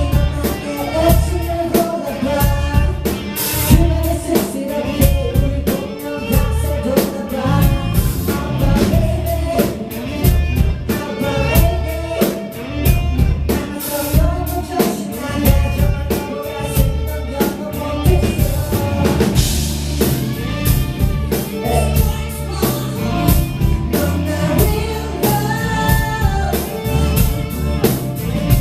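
Live pop song played over a concert sound system: a male singer's vocal line over a heavy drum-kit beat and bass.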